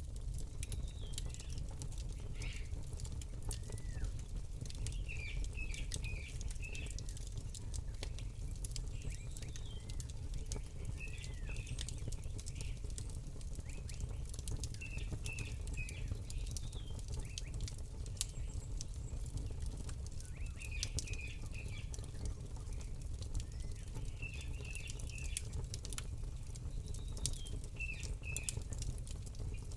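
Campfire crackling, with many sharp pops and snaps over a low steady rumble. A small bird chirps in short runs of quick high notes every few seconds.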